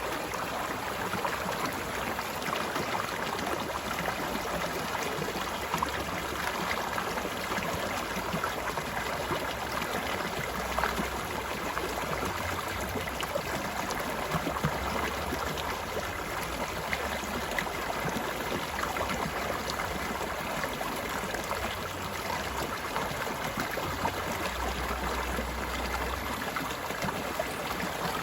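Stream water flowing and babbling steadily, with small splashes scattered through it.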